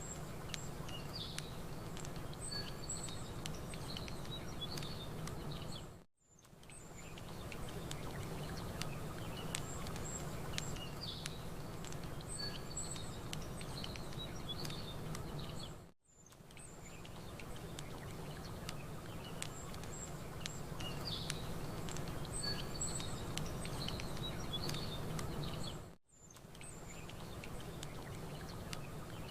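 Campfire crackling with scattered small pops over a steady low rush, while small birds chirp now and then. The sound dips briefly to near silence about every ten seconds, three times, then comes back: a short ambience recording looped.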